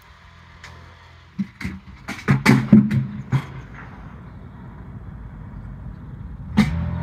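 BMW 530d's straight-six diesel engine starting: a few clicks, then it cranks and catches about two seconds in and settles into a steady idle. A sharp knock comes near the end, followed by a louder steady low sound.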